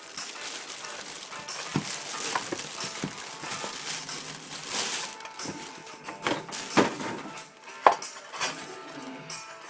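Packaging and the hard plastic parts of a new heat gun being handled: rustling with scattered clicks and knocks, one sharper knock near the end.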